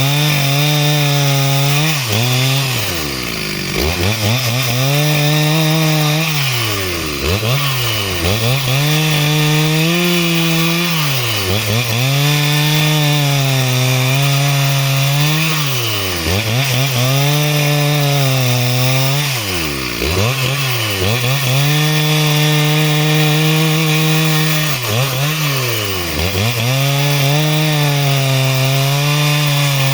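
Two-stroke chainsaw sawing timber into rafters. It is held at full throttle for several seconds at a time, and its pitch drops sharply and climbs back every two to six seconds as the throttle is eased off and opened again between passes.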